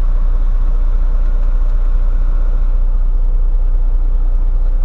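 Diesel truck idling with the air conditioning running: a steady low engine rumble under an even rush of blowing air.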